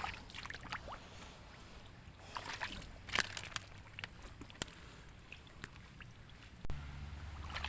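Faint sloshing and scattered small splashes of shallow pond water, with a low steady hum coming in near the end.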